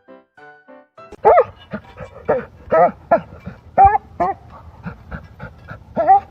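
Dog barking repeatedly, a run of short, loud barks starting about a second in, after a moment of piano music.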